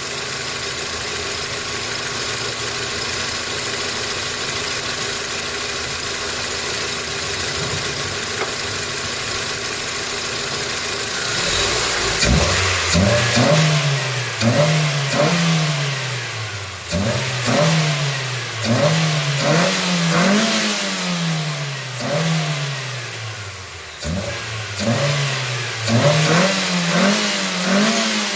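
Toyota Corolla E10 engine, fitted with a K&N air filter, idling steadily, then revved repeatedly from about twelve seconds in, the pitch climbing quickly and falling back each time.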